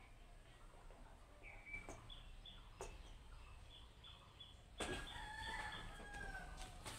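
Faint background bird calls: a few short chirps, then a longer pitched call lasting about two seconds that starts nearly five seconds in.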